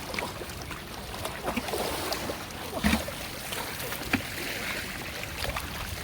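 Water splashing and sloshing in shallow floodwater, with a louder splash about three seconds in.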